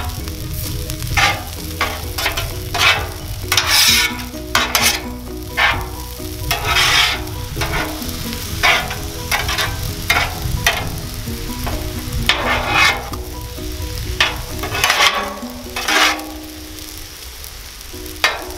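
Metal spatulas scraping and chopping fried rice across a hot Blackstone flat-top griddle over a steady sizzle, in quick strokes about two a second. The strokes pause for a moment near the end.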